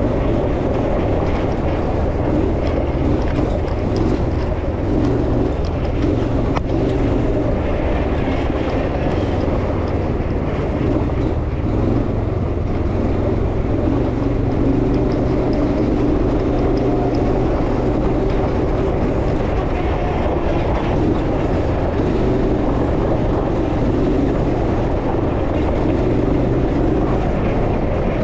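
Off-road vehicle engine running steadily as it is driven, with continuous noise from the drive.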